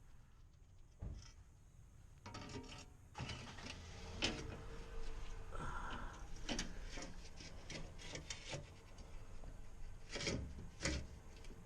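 Hand work with tools and parts: scattered clicks and knocks mixed with rubbing and scraping, busiest midway and again near the end.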